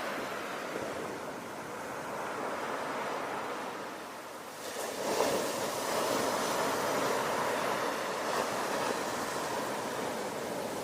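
Ocean surf: waves washing in and receding, ebbing quieter in the middle and swelling again a little past halfway as a new wave breaks.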